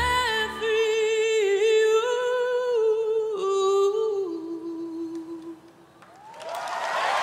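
A woman's voice humming a long, unaccompanied closing phrase with vibrato after the backing music drops out; the note steps down about four seconds in and fades away. Audience applause and cheering swell up near the end.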